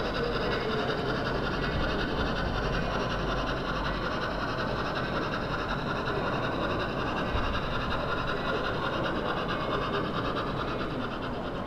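Model train running steadily on a layout's track, a continuous whirring hum with a faint high whine.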